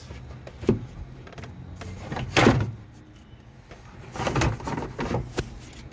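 A few separate knocks and clunks, the loudest about two and a half seconds in and several more close together near the end, as a replacement radiator is handled and worked into a pickup's engine bay.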